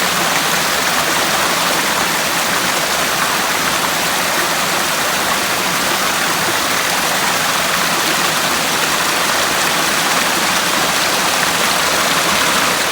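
Cascading waterfall rushing, a loud, steady wash of water noise.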